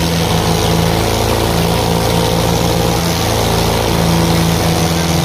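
Tractor diesel engines running loudly and steadily, their pitch shifting slightly a few times.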